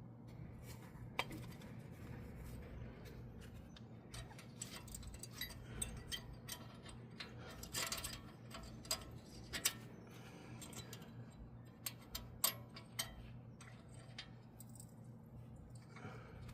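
Scattered small metallic clicks and clinks of brake parts and hand tools being handled during front brake pad and caliper work, over a steady low hum. The sharpest knocks fall about halfway through and again about three quarters of the way through.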